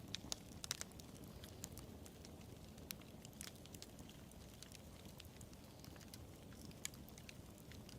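Wood fire burning with a steady low rumble and irregular sharp crackles and pops, a quick cluster of louder pops in the first second and another single pop near the end.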